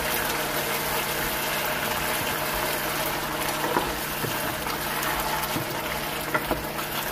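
Potato cubes frying in a thick masala in a nonstick pan: a steady sizzle, with a wooden spatula stirring through it and a few faint taps.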